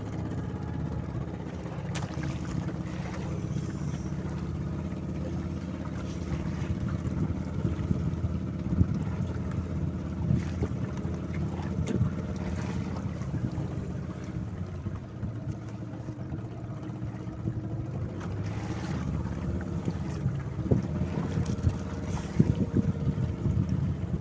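Fishing boat's engine running steadily, with scattered knocks on deck, more of them near the end.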